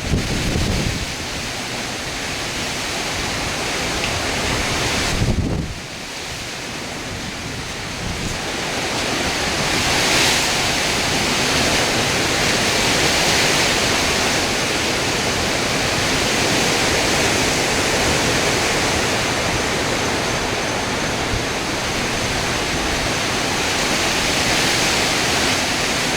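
Hurricane wind and heavy rain: a loud, steady rush of noise that dips briefly about five seconds in, then builds back up.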